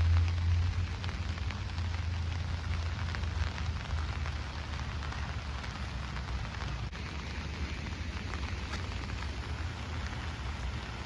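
Heavy rain pouring down steadily, a dense patter of drops. Under it, a low rumble is strong for the first few seconds and then dies away.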